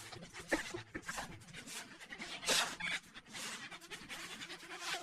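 A Staffy-type dog panting, a string of short breaths about once a second.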